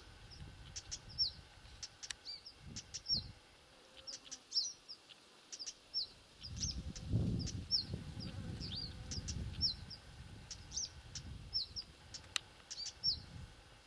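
Small songbirds calling repeatedly: short, high, downward-sliding chirps, one or two a second. A low rumble comes in about halfway through.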